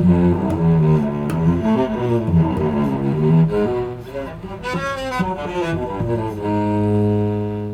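Cello playing a melody of changing bowed notes, with a sliding passage a little past the middle, settling on a long held low note near the end.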